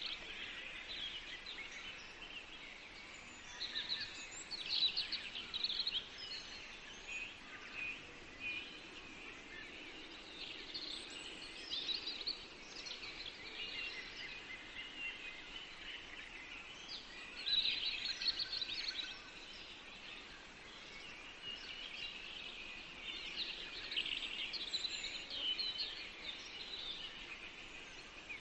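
Several songbirds singing in a forest: a chorus of overlapping chirps and trills, high-pitched, rising and falling in bursts over a faint steady background hiss.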